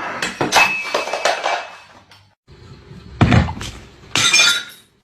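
Clattering crashes of falling objects, with a ringing, glassy clink. A flurry of impacts comes in the first second and a half, then two louder crashes just after three and just after four seconds.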